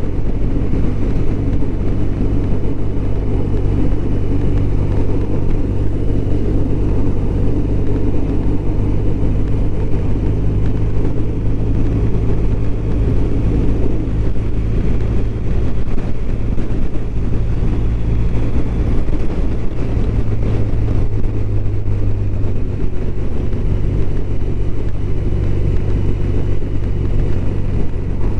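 BMW R1200RT's flat-twin engine running at a steady cruise on the move, under a steady rush of wind and road noise.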